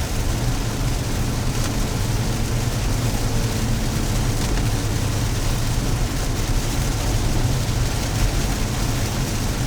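Steady car-cabin drone of engine and tyres while driving in light rain, with an even hiss of rain over it.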